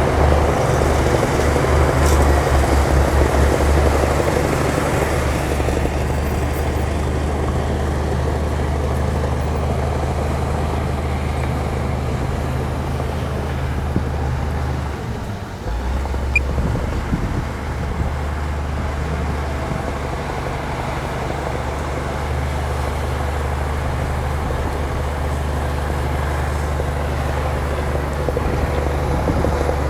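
Heavy earthmoving machine's diesel engine running steadily under load, its note dipping briefly about halfway through.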